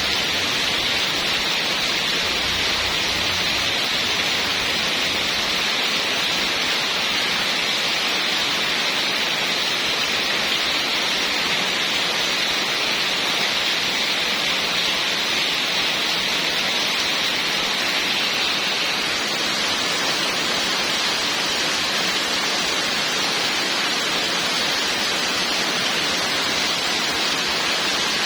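Heavy rain falling steadily: an even, unbroken hiss, strongest in the upper middle range.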